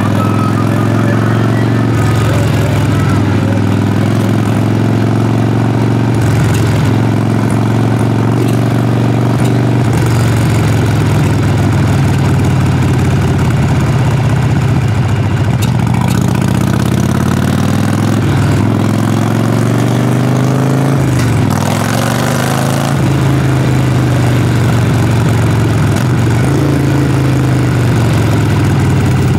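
Harley-Davidson Sportster Forty-Eight's air-cooled 1200 cc V-twin engine heard through its exhaust while riding. It runs steadily at low revs, rises in pitch as the bike accelerates in the second half, and drops suddenly about two-thirds of the way through as the throttle is closed or a gear is changed.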